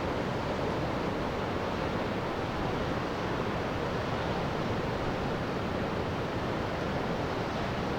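Steady rushing of wind and surf: an even, unbroken noise with no distinct events, typical of wind across the microphone on a wet, windy coast.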